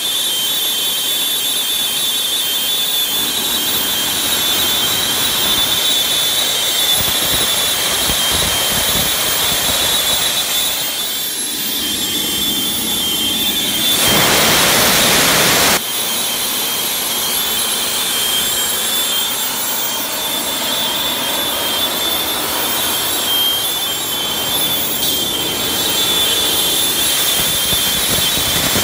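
JetGyro's jet engine running with a steady high whine over a rushing noise. About halfway through it gets louder for about two seconds, then drops back abruptly.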